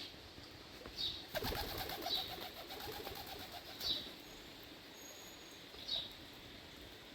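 Bird chirps, short high calls about every one to two seconds, with a brief rapid flutter of wings about a second and a half in.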